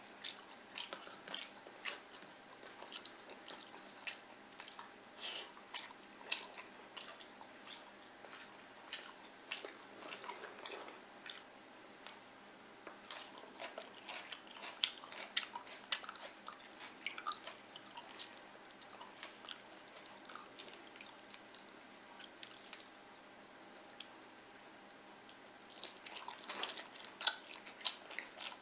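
Close-up chewing and wet mouth clicks of a person eating fried fish and rice by hand, in irregular bursts that thin out in the middle and come thickest near the end.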